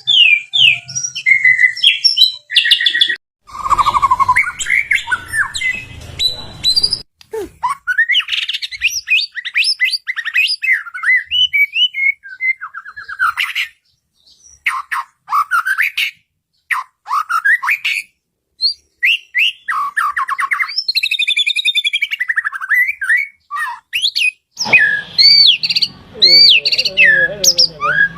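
White-rumped shama (murai batu) in full song: a long, varied run of loud whistles, fast trills and gliding notes, broken by short pauses, with rougher, harsher chattering phrases in places.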